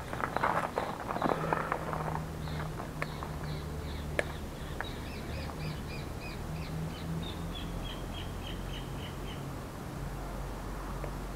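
A bird calls a long run of short, evenly spaced notes, about three or four a second, for several seconds, then stops. Before the calls begin there is a brief spell of rustling and clattering, and a low steady hum lies underneath.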